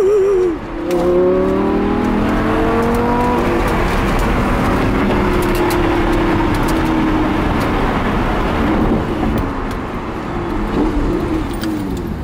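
Lamborghini engine accelerating, heard from inside the cabin: after a brief dip about half a second in, its pitch climbs for a few seconds, then it runs more steadily under heavy wind and road noise.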